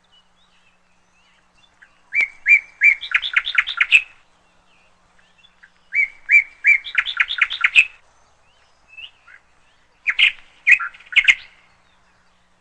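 Canary chirping in three short bursts, each a few separate notes followed by a quick run of repeated notes.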